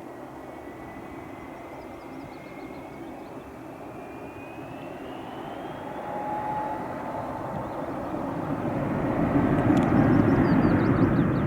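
Airbus A320's twin IAE V2500 turbofan engines at takeoff power on departure, growing steadily louder as the jet approaches and is loudest near the end. A thin high whine rises in pitch over the first few seconds.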